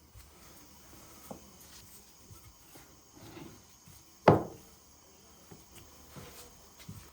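Quiet household handling noises with one sharp knock about four seconds in and a few small clicks.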